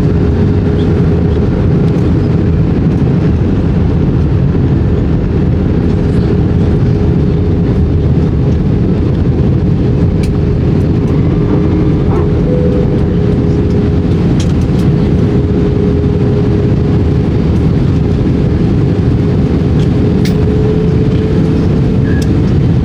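Steady cabin roar of an Airbus A320 in flight, with engine and airflow noise and a steady hum riding on top.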